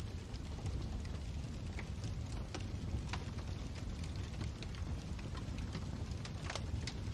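Fire crackling in a fireplace: a steady low rumble of burning with irregular sharp pops and snaps, a louder pop about six and a half seconds in.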